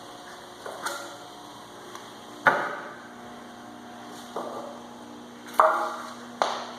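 A series of sharp knocks, about six in all and irregularly spaced, each with a brief ringing tail; the loudest come about two and a half and five and a half seconds in. A steady low hum runs underneath.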